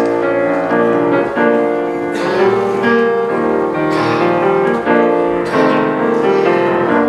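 Piano playing a chordal introduction, with a new chord struck about every second and no voices yet.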